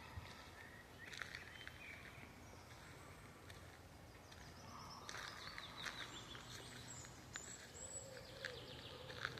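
Songbirds chirping and calling, faintly, with a quick falling series of notes about five seconds in and more short chirps near the end.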